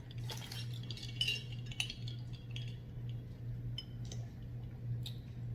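Light clinks and clicks of utensils against dishes or takeout containers as people eat, a scatter of small ticks that thin out after the first two seconds, over a steady low hum.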